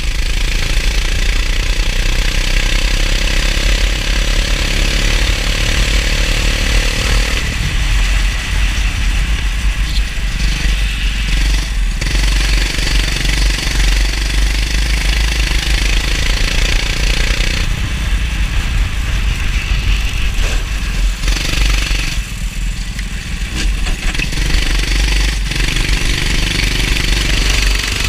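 Kart engine running under load on a lap of a wet track, its revs rising and falling several times as it accelerates and backs off, with a heavy low rumble and a steady hiss throughout.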